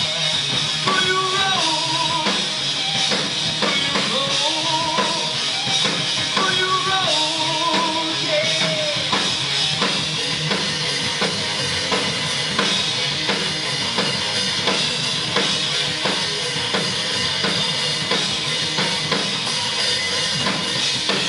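Live rock band playing an instrumental passage: a drum kit with driving bass drum and distorted guitars. Over the first several seconds a wavering lead melody with vibrato rides on top.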